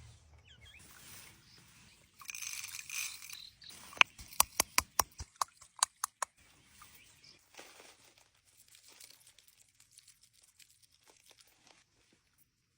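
Kitchen food-preparation handling sounds: a brief rustle, then a quick run of about ten sharp taps over a couple of seconds, then faint scattered clicks.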